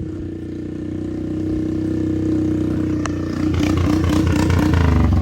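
Straight-piped four-wheeler (ATV) engine running loud, growing steadily louder and turning rougher and choppier about three and a half seconds in.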